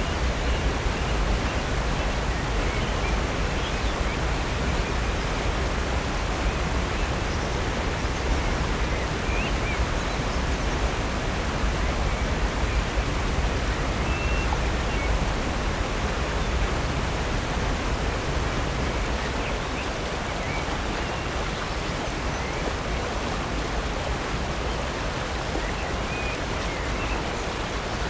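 Silver Creek's water rushing steadily over Upper North Falls, a constant deep rush with no break, easing slightly in level about two-thirds through.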